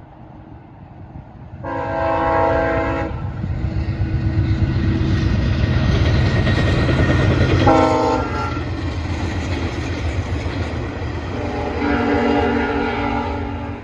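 Via Rail passenger train passing at speed. Its horn sounds three times, long, short, then long, the last held past the end, over the loud rumble and clatter of the locomotive and cars going by. The rumble swells to its loudest in the middle.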